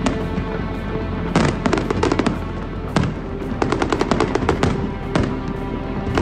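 Aerial fireworks going off in two runs of rapid sharp cracks, about a second and a half in and again from about three and a half seconds, with music playing underneath.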